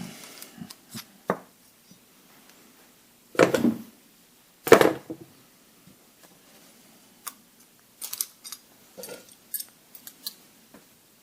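Metal tools and parts clanking and clicking while an overrunning clutch is being fitted to a tractor's PTO shaft: two loud clanks with a short ring about three and a half and five seconds in, then a run of lighter clicks and taps.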